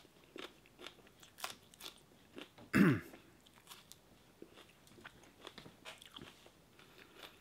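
A person biting into and chewing a fresh Monkey Face chili pepper, a run of small crisp crunches close to the microphone. A brief low vocal sound with a falling pitch comes just before three seconds in.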